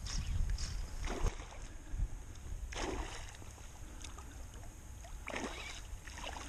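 Wind rumbling on the microphone, with four short swishing sounds spaced irregularly through it.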